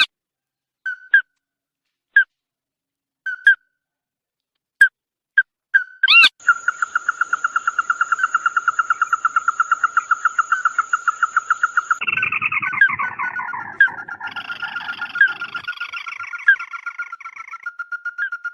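Calls of the bird known in Vietnamese as chim mắt đỏ ('red-eyed bird'). First come single short notes about a second apart, then a fast run of repeated notes about seven a second. From about twelve seconds in, several calls overlap and fall in pitch.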